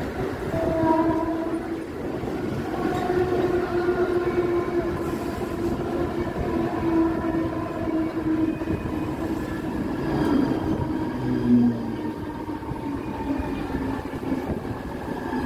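Mumbai suburban electric local train (EMU) running, heard from inside a coach at an open window: a continuous rumble of wheels on track with a steady humming whine, which drops lower in pitch about eleven seconds in.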